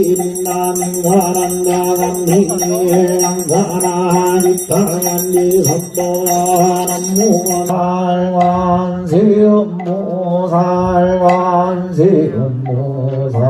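A man chanting Buddhist liturgy in long, drawn-out held notes. A bell jingles steadily under the chant and stops a little over halfway through.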